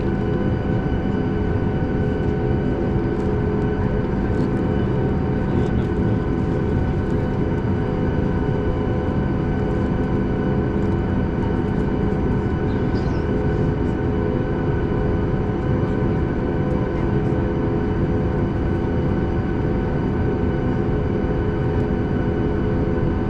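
Steady cabin noise inside a Boeing 737 MAX 8 on the ground: its CFM LEAP-1B engines at idle and the air system make an even hum with several steady tones, holding at one level.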